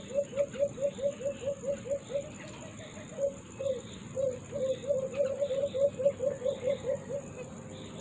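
A caged bird calling a fast run of short, low notes, about five a second, with a looser, broken stretch around the middle.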